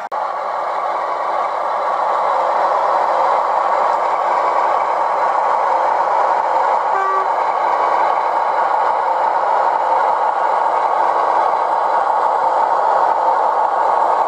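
OO-scale model railway locomotive running steadily, with a short tone about halfway through.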